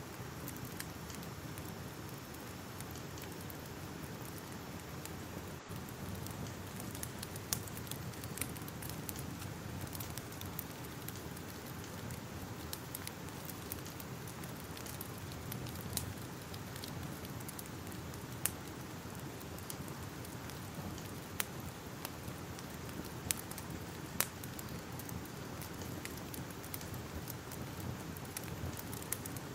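Crackling fire: a steady low hiss and rumble of burning, with sharp pops and snaps at irregular moments.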